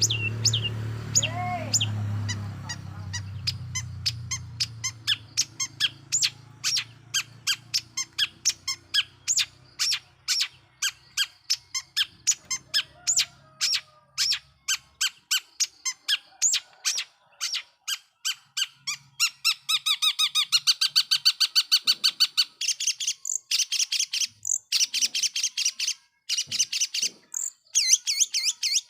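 Long-tailed shrike (cendet) singing: a fast run of sharp, repeated notes, about four a second, turning into denser chattering rattles about two-thirds of the way through. A low hum underneath fades out over the first few seconds.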